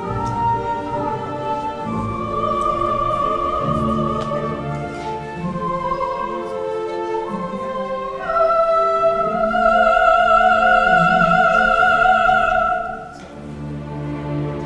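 Wordless coloratura soprano singing with orchestral accompaniment. About eight seconds in she rises to a long, loud high note with vibrato, held for about five seconds before it breaks off.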